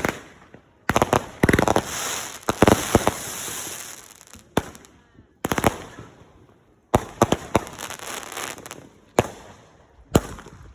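Fireworks going off in a display: volleys of sharp bangs about every one to two seconds, each followed by a fading crackle.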